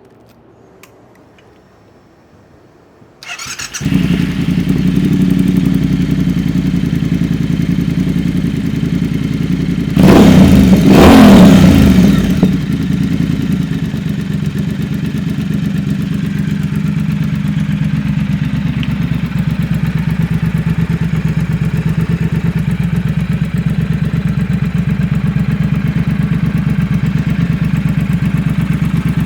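Triumph Thruxton 1200 RS's 1200 cc parallel-twin engine starting about three seconds in, catching after a brief crank and settling into idle. About ten seconds in, one rev rises and falls back over two seconds or so. After that the engine idles steadily.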